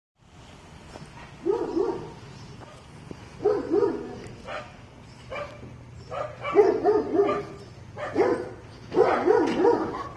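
A dog barking in repeated short clusters of yips and barks, a burst every second or two, over a steady low hum.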